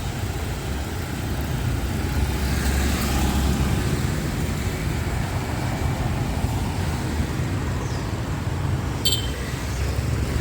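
Busy city street traffic: a steady rumble of passing vehicles, with a brief high-pitched sound about nine seconds in.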